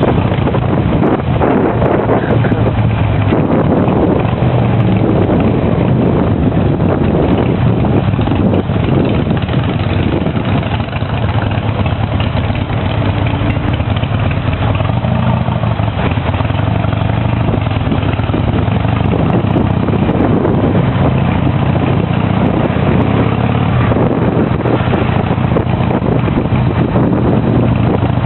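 Harley-Davidson V-twin motorcycle engine running steadily on the ride, under a constant rush of wind and road noise.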